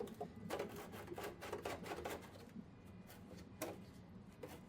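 Hand tools scraping and clicking against greasy engine parts during a diesel engine teardown: a quick run of scrapes and knocks in the first two seconds, then a few single knocks.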